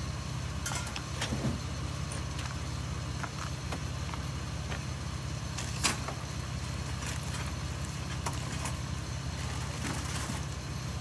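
Vehicle engine idling steadily, with scattered light knocks and clicks and one sharper knock about six seconds in.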